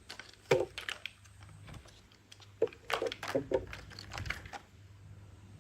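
Irregular light clicks and taps, in quick clusters about half a second in and again around three seconds in, then tapering off.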